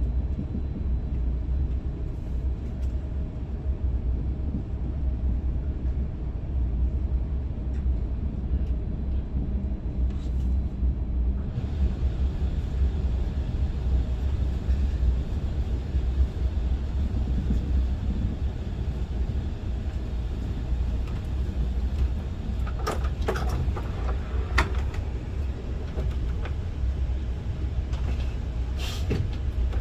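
Steady low rumble of an SRT high-speed train (SR 120000 series electric multiple unit) running, as heard inside the passenger cabin, with the hiss growing a little brighter a third of the way in. A few short knocks or clicks come about two-thirds through and again near the end.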